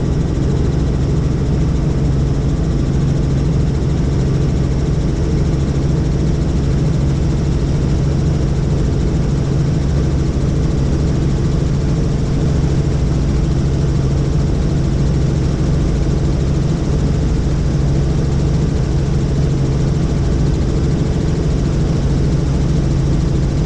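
Helicopter in flight: a steady, loud drone of rotor and turbine with an even low hum.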